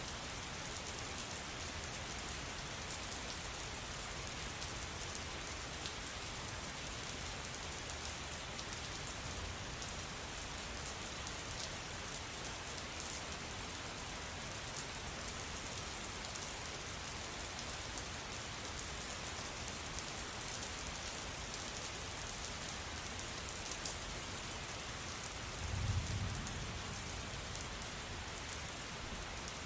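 Steady rain falling, an even hiss with many small drop ticks through it. Near the end a brief low thump or rumble stands out, the loudest moment.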